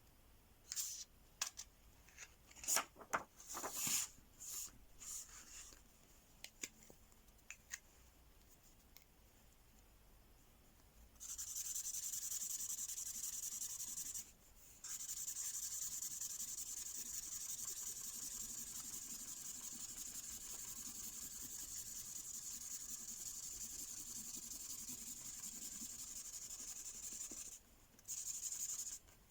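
Mystery-ink marker pen scribbling on paper in long, continuous colouring strokes with a brief break partway through, after several seconds of scattered sharp clicks and taps from handling.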